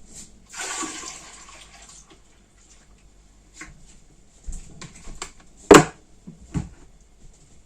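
Liquid pouring or splashing for about a second and a half, then scattered clinks of kitchenware and a sharp knock a little before six seconds, with a smaller knock just after.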